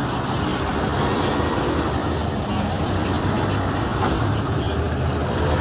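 Steady road traffic noise: vehicle engines running and tyres on the road, a continuous low hum with no single event standing out.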